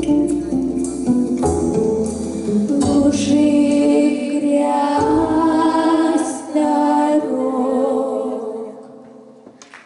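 A vocal quartet sings the closing bars of a song in close harmony over some instrumental backing, holding long chords. A final chord fades away near the end.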